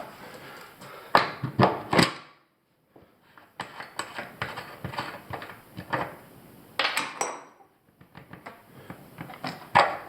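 Hand tools clinking and knocking against the metal parts of a cartridge faucet: scattered sharp knocks, with a short rattling scrape about seven seconds in and a loud knock at the very end.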